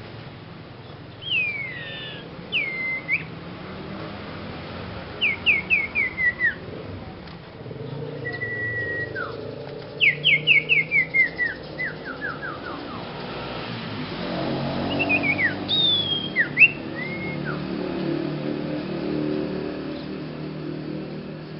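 A young sirpu songbird singing in whistled notes. Single glides alternate with quick runs of five to eight falling notes, several to the second.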